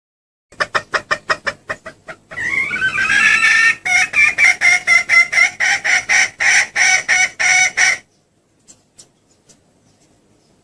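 Junglefowl hen calling: a quick run of clucks that slows down, a drawn-out rising call about two seconds in, then a string of about a dozen loud clucks, roughly three a second, that stops about eight seconds in. This is a hen lure call, used to draw in junglefowl cocks.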